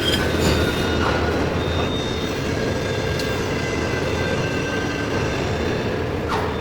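Heavy-duty lathe turning a large steel workpiece: a steady machine rumble with thin, steady high tones from the tool cutting the metal, and a few faint clicks.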